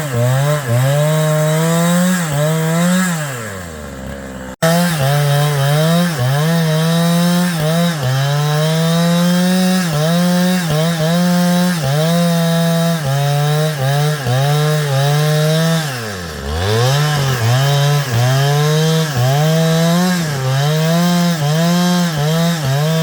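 Chainsaw running hard through wood, its pitch dipping briefly about once a second as the chain bites. Twice the engine falls away toward idle and then revs back up: once about four seconds in, where the sound cuts off abruptly, and again about sixteen seconds in.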